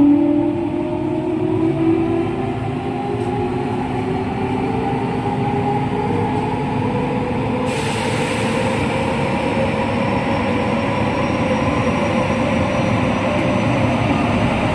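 JR West 207 series electric train heard from onboard, its original traction motors whining in several tones that climb slowly in pitch as the train gathers speed, over steady wheel-on-rail rumble. About eight seconds in, a low steady tone drops out and a louder hiss of running noise comes in suddenly and stays.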